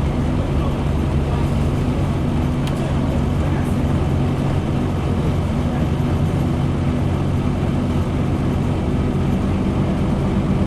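Scania N230UD bus's diesel engine running at a fairly steady pitch, with road noise.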